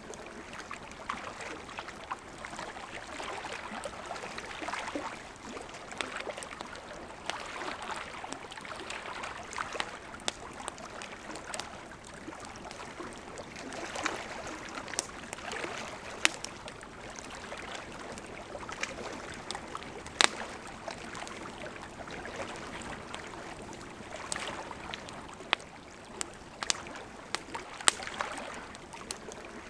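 Wood campfire burning: a soft, swelling hiss of the flames with sharp crackles and pops from the burning wood at irregular intervals, a few of them much louder than the rest.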